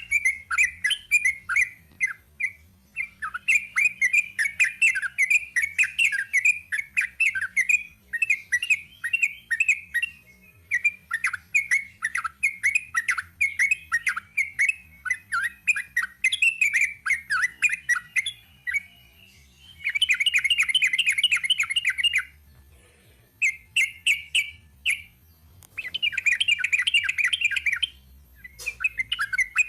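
Yellow-vented bulbul (trucuk) singing a long, fast chattering song of short repeated notes, with a few brief pauses and several denser, unbroken trilled runs in the last third.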